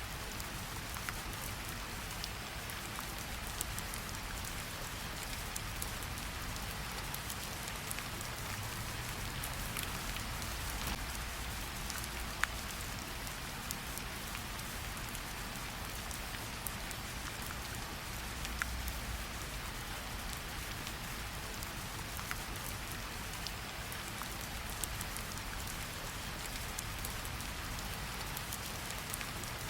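Steady rain falling, an even hiss with scattered close drop ticks, two of them louder about twelve and nineteen seconds in, over a low rumble.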